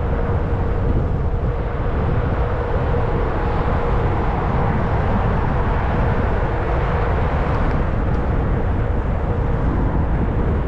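Steady rumble of wind and road noise from riding a fat-tyre electric bike, with a faint steady hum running underneath.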